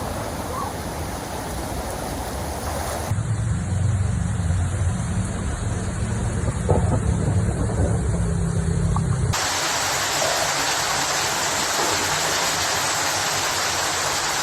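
Steady outdoor noise in three abrupt sections: a hiss, then a heavy low rumble from about three seconds in, then from about nine seconds in a loud, even rush of water like floodwater.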